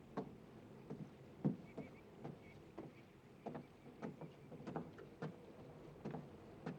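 Footsteps knocking on the wooden ties of a railroad trestle, irregular steps about one or two a second.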